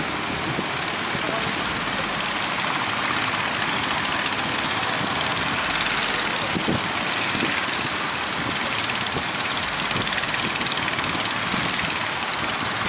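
Boat engine running steadily under a loud, even rush of wind and surf.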